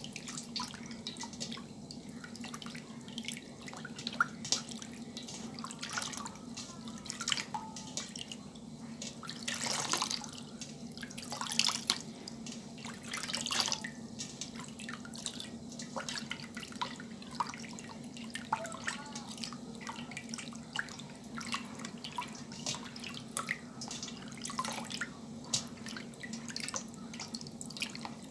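Water dripping and splashing: many small irregular drops, with a few louder splashes in the middle, over a steady low hum.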